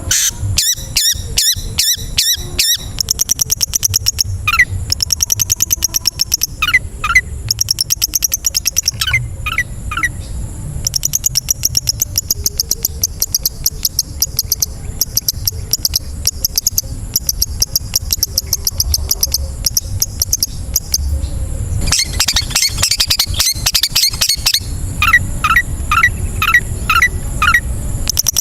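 Long-tailed shrike song: fast runs of sharp, rapidly repeated notes and high chatter, broken by groups of short downward-sweeping whistles. A steady high hiss runs underneath.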